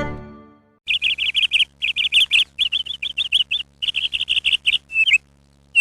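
A small bird chirping in rapid runs of short, high notes, grouped in bursts of about half a second with short gaps between them.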